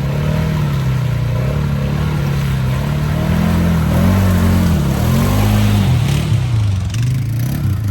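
ATV engine revving under load, steady at first and then rising and falling in pitch several times from about halfway in, as it is worked through a mud hole.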